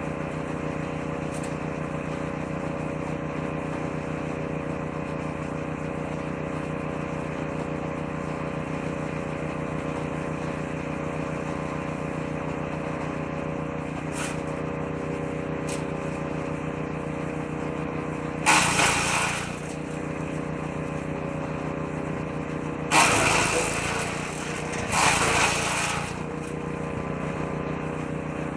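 Engine-driven woodchipper running at a steady speed, with three loud bursts of shredding in the last third as branches are fed into the drum.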